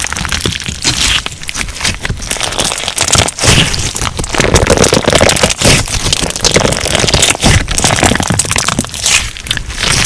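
Crunch slime being squeezed and pressed by hand, a dense run of crackles and pops with no pause.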